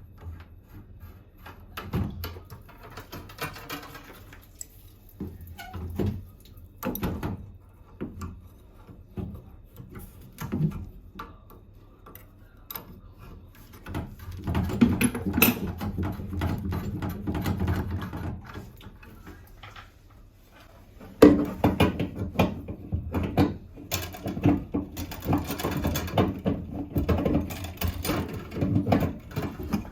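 Irregular knocks, clicks and rattles of hands-on plumbing work on a bathroom faucet, with two longer stretches of denser rattling and clatter, one around the middle and one near the end.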